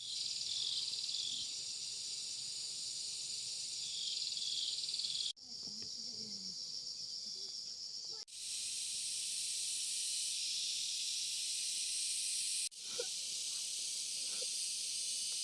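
Dense, high-pitched buzzing of an outdoor insect chorus, pulsing slightly. It cuts off abruptly and resumes three times, about five, eight and thirteen seconds in.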